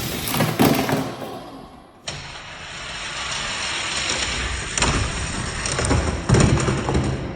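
Hot Wheels diecast cars running down plastic drag-race track, a steady rushing rattle of small wheels on the track. The sound breaks off abruptly about two seconds in and starts again, with several sharp clacks in the second half.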